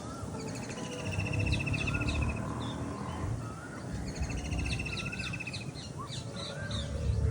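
Several birds calling at once: a trill that comes back about every four seconds, rapid high twittering, and short rising whistled notes, over a steady low rumble.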